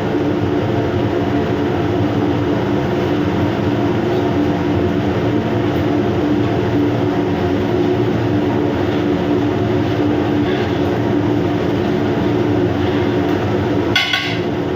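Steady mechanical drone with a constant low hum, like running ventilation or machinery. A single metallic clink near the end.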